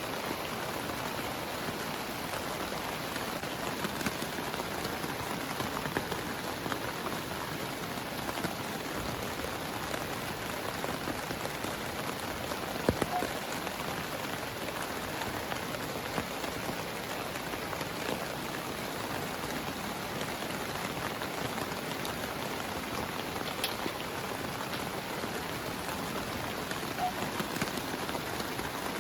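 Heavy rain falling steadily, with scattered single drops striking close by as sharp taps, one louder tap about halfway through.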